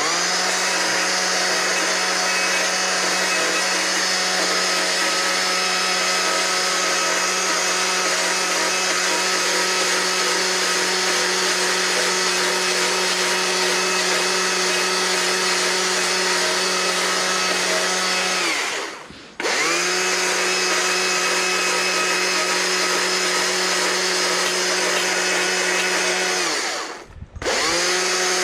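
Die grinder running steadily at a high, constant pitch. Twice it is let off, its pitch sagging as it almost stops, then spun straight back up: once about two-thirds of the way through and once near the end.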